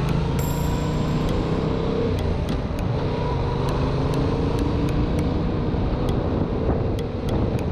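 Yamaha MT-07's 689cc parallel-twin engine running at cruising speed on the highway, its pitch drifting slightly, under heavy wind rumble on the microphone.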